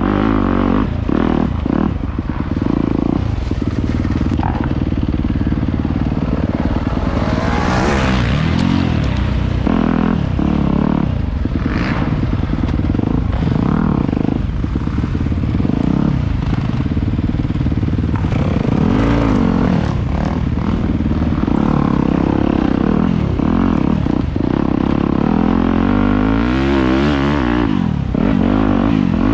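Dirt bike engine running hard, its revs rising and falling several times as the throttle is worked.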